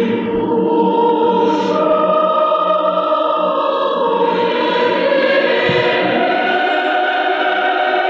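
Choir singing Russian choral music in long, sustained chords that shift slowly.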